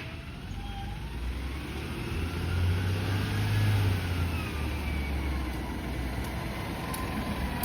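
Garbage truck's engine running and revving, loudest about two to four seconds in, with a faint whine rising and falling in pitch above the rumble.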